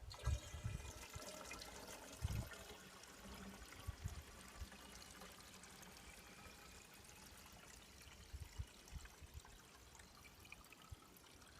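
Water being poured into a two-stroke motorcycle exhaust pipe, a quiet steady trickle with a few low knocks, the pitch rising a little near the end as the pipe fills.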